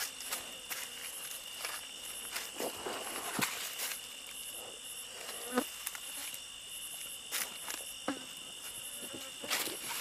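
Insects, crickets among them, trilling steadily in a high chorus, with scattered short clicks and knocks over it.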